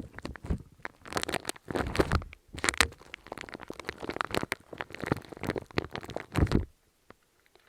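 Close-up crackling and crunching handled right at the microphone: dense, irregular crackles that stop near the end.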